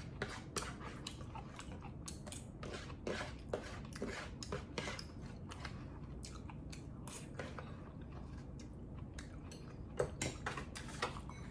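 A person chewing food close to the microphone, with many small irregular mouth clicks and smacks, and a fork clinking now and then against a plate; two louder clicks come about ten seconds in.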